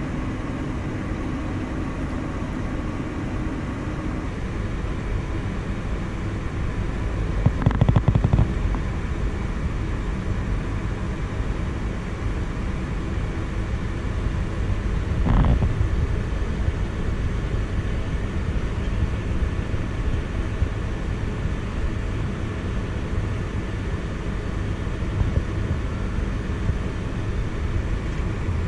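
Tractor engine running steadily at idle, heard as an even low rumble, with a short run of clicks about eight seconds in and a brief louder swell about halfway through.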